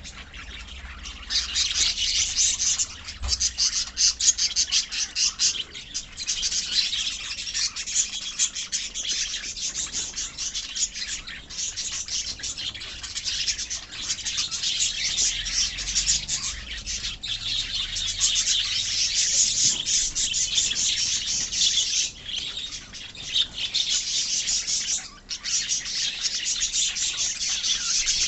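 A colony of pet lovebirds chirping and twittering continuously, many high calls overlapping at once.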